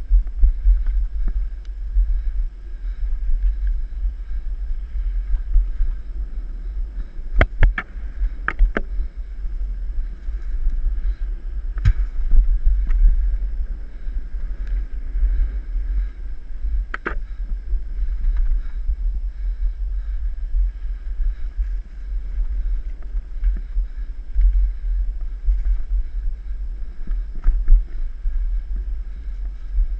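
Steady low wind rumble on the microphone of a camera riding along on a mountain bike, with a few sharp rattles as the bike jolts over bumps: a cluster about a quarter of the way in, then two single ones.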